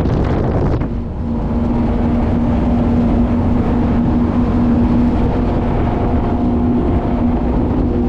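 Tige ski boat's inboard engine running steadily under way, a constant drone with hull and water rush. The level and hiss dip briefly about a second in, then steady again.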